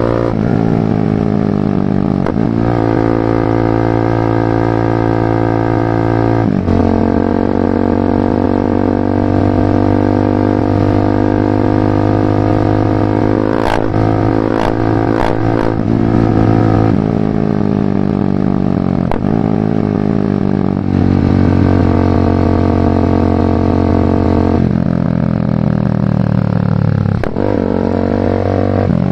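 BMW G310R single-cylinder engine running through a full Mivv exhaust under way, its note holding steady and then shifting abruptly several times as the rider changes gear. A few sharp clicks come around the middle.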